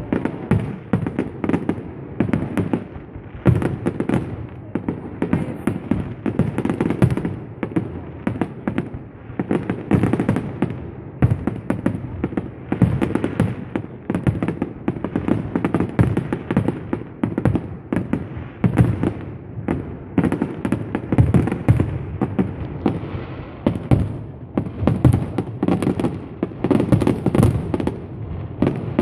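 Fireworks display going off in a dense, unbroken string of bangs and crackles, many bursts a second with no pause.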